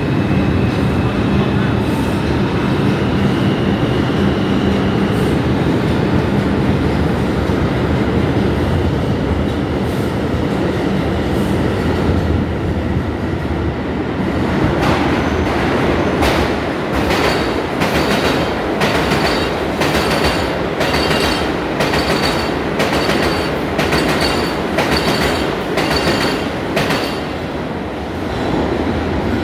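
New York City subway train running through the station with a steady rumble. About halfway in, its wheels start clacking over rail joints at an even rhythm, roughly one clack a second, which stops shortly before the end.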